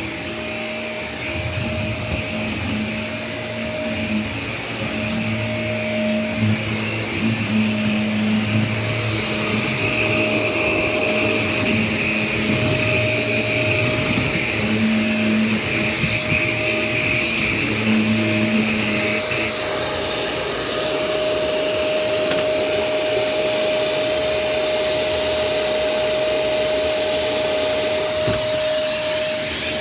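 Shark Rotator Lift-Away Professional vacuum cleaner running steadily, with a constant motor whine. About two-thirds of the way through, its lower hum drops away.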